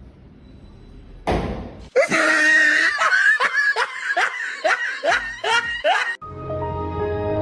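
A person laughing hard in a rapid string of rising bursts, a few a second, after a short rush of noise; music takes over near the end.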